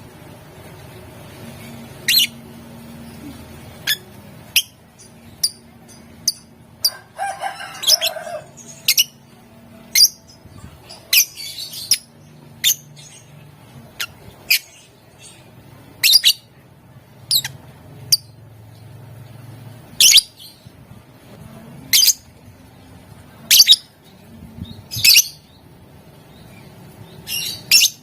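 Lovebird chirping: short, sharp, high-pitched chirps, one every second or two, with a longer, rougher call about seven seconds in.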